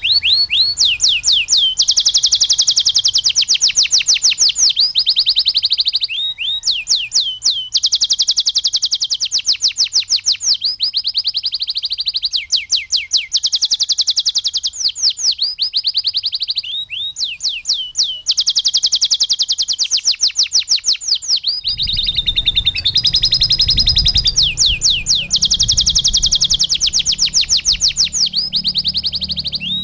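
Domestic canary singing in long phrases of rapid, high trills of repeated notes, its song filled with lovebird-style phrases, with short breaks every few seconds. A low rumble joins about two-thirds of the way in.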